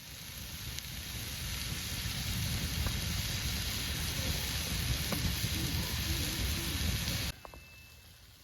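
Thick burgers sizzling in a cast iron pan over a campfire: a steady frying hiss that builds over the first couple of seconds and cuts off suddenly about seven seconds in.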